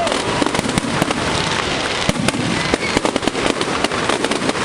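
Firework display: a dense, unbroken run of bangs and crackles from bursting shells.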